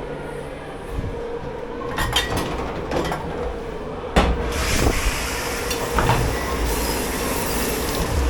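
Dish pit at work: a steady machine hum with sharp clatters of crockery and metal about two, three and four seconds in, then a rushing hiss of water from about halfway.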